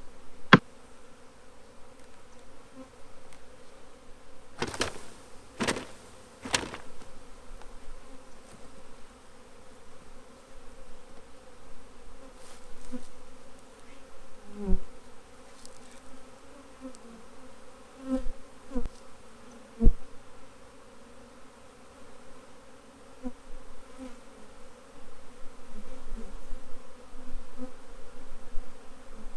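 A swarm of honeybees buzzing steadily, just shaken out of their box onto a blanket. A few sharp knocks cut through the hum, three close together about five seconds in and a few more later on.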